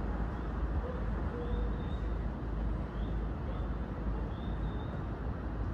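Keio 7000 series commuter train standing at the platform with its doors open, a steady hum and low rumble from its idling equipment. Faint short chirps come and go every second or so.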